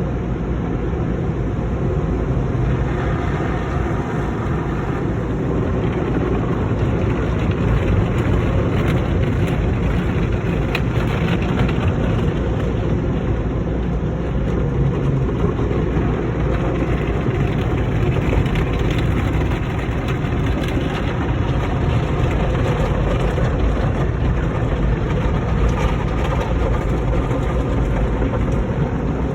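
Automatic car wash running: a steady, even rushing and rumbling noise with a car engine idling underneath.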